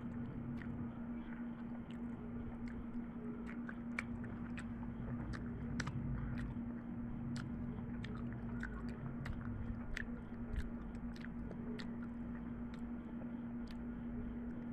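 Someone chewing food, with irregular sharp mouth clicks about one or two a second, over a steady low hum.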